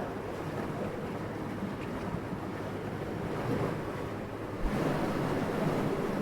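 Steady wind blowing in a low rush that swells and eases, picking up in a stronger gust about three-quarters of the way through.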